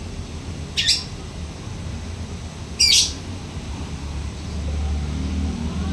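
Lovebird giving two short, shrill calls about two seconds apart, over a low background rumble that grows a little louder near the end.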